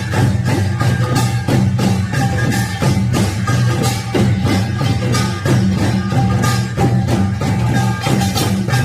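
Korean pungmul percussion playing: rapid, steady strikes of small gong and drums over a sustained low ringing. The rhythm is continuous and does not break.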